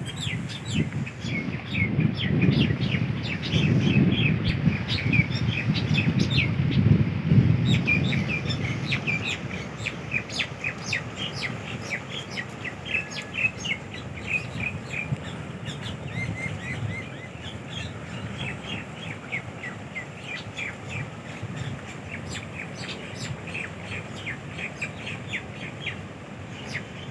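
Small birds chirping many short, high calls throughout, over a low gusty rumble that is strongest in the first eight seconds or so.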